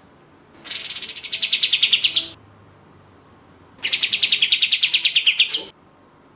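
Kapas tembak (katem) songbird giving two long, rapid trills of repeated notes, each sliding down in pitch and lasting under two seconds, with a pause between them.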